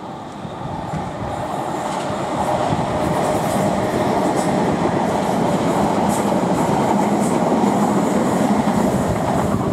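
Class 455 electric multiple unit running past on the line. Its running noise swells over the first few seconds and then holds steady, with a steady whine and light clicks of the wheels over the rails.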